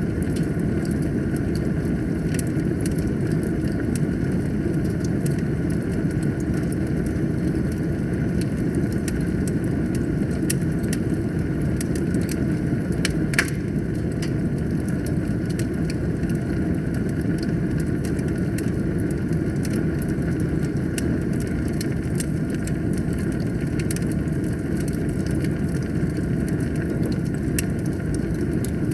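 Wood fire burning in a fireplace: a steady low rumble of flames with frequent sharp crackles and pops, one louder pop about halfway through.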